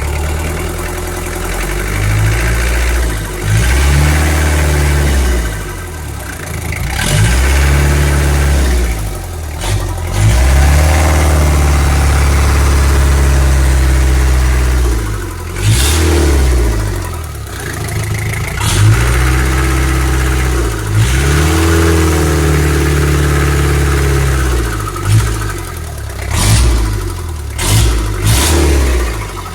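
Isuzu 4BE2 four-cylinder diesel engine running on a check run, revved up and let back down to idle several times, each rev lasting a few seconds. A few sharp clicks come near the end.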